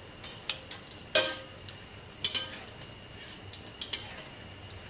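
Egg omelet with minced pork frying in a wok of oil, with a steady light sizzle. A metal ladle clinks against the wok a few times; the loudest clink, about a second in, rings briefly.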